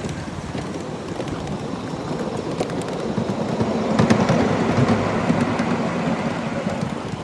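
Ride-on 7½-inch gauge miniature train rolling along the track, its wheels rumbling and clattering, the rumble growing louder in the middle.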